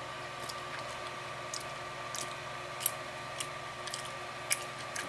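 A person chewing a soft, chewy cookie, with irregular wet clicks of the mouth, the two loudest about three and four and a half seconds in, over a steady background hum.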